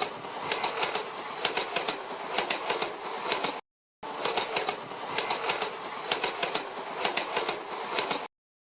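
Train passing, its wheels clacking over rail joints in regular groups of clicks over a steady rumble. The sound cuts out for a moment about three and a half seconds in, resumes, and stops suddenly near the end.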